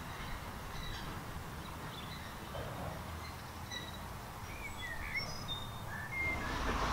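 Birds chirping with short whistled calls, scattered at first and more frequent in the second half, over a low steady outdoor rumble.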